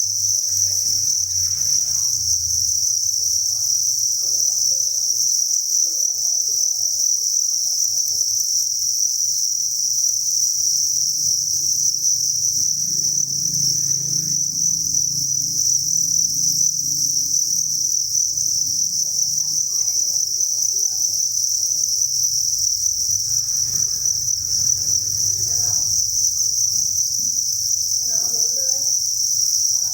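Dense chorus of many farmed crickets chirping together: an unbroken, high-pitched trill that stays steady, over a faint low hum.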